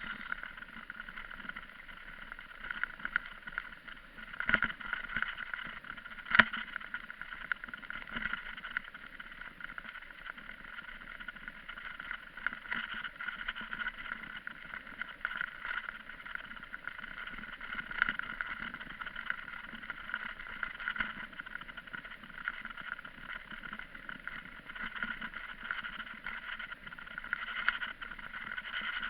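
Steady rushing noise of a bicycle ride, with two sharp knocks about four and six seconds in.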